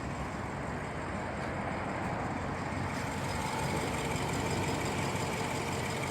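BMW 650i Gran Coupe's twin-turbo V8 idling steadily, heard from outside the car.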